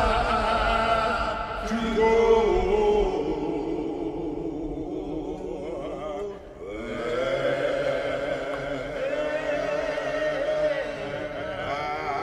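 Men's a cappella gospel group singing a slow spiritual in close harmony, with a deep low bass part and a lead voice held over it.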